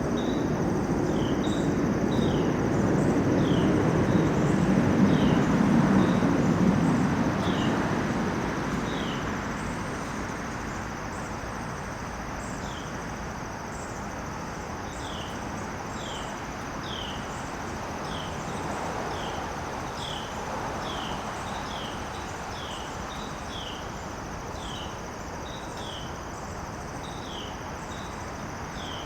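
Outdoor garden ambience: a steady high insect drone, with a short falling chirp repeating about once a second. A low rushing noise swells to a peak about six seconds in and fades away by about ten seconds.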